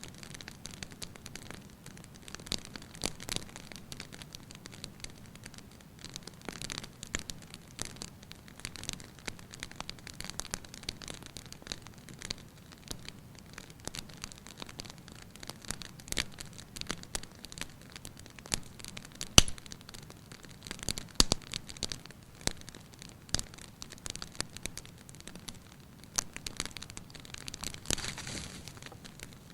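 Wood fire crackling in a fireplace: a low hiss with irregular snaps and one sharp, much louder pop about two-thirds of the way through.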